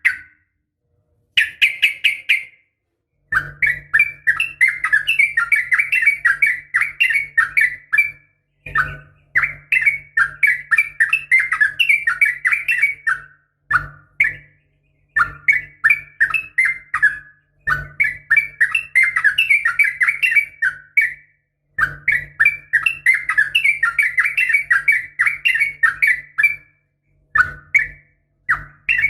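Yellow-vented bulbul (trucukan) singing a rapid, bubbling chatter. The song comes in repeated runs of about one to five seconds, broken by short pauses.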